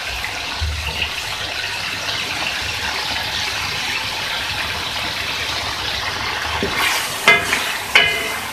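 Chicken pieces sizzling steadily in hot oil and masala in a karahi. Two sharp ringing clinks sound near the end.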